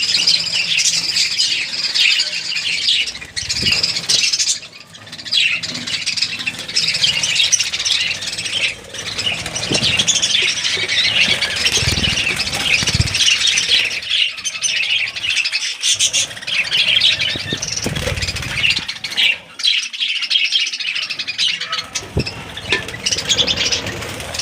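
A group of budgerigars chattering continuously, many high chirps and warbles overlapping.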